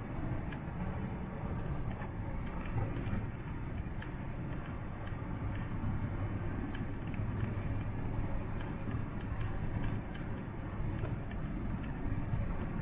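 Steady low rumble of a truck's engine and road noise heard from inside the cab, with scattered light ticks over it.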